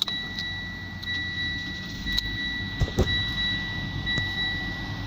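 Mitsubishi Outlander's in-car warning tone sounding steadily and high-pitched as the ignition is switched on for starting, with a few sharp clicks about two to three seconds in over a low steady hum.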